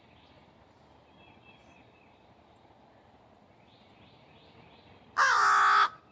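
Faint background with thin distant chirps, then, about five seconds in, one loud, harsh call from a noisy blackbird.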